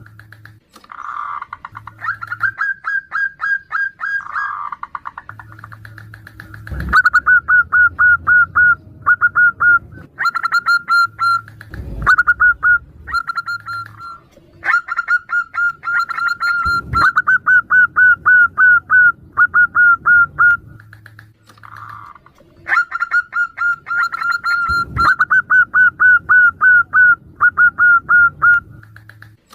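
Zebra doves (perkutut) calling back and forth: repeated runs of fast, staccato cooing notes a few seconds long, with softer single coos between the runs. Four sharp clicks fall among the calls.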